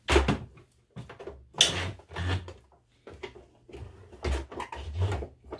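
Irregular clunks, knocks and rustles from hands working the sewing machine's levers and handling fabric.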